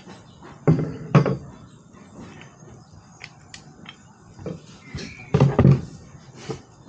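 Hand tools knocking and clattering as someone rummages through a tool bag: two loud clunks about a second in, scattered light clicks, then a quick cluster of heavier knocks just past the middle.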